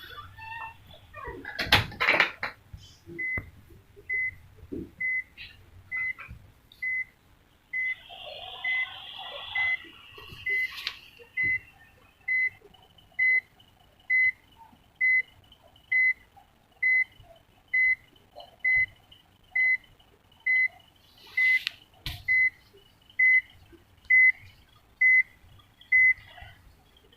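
An electronic beeper giving a short single-pitched beep about once a second, steady and unchanging. There is a knock and clatter about two seconds in, and another knock near the end.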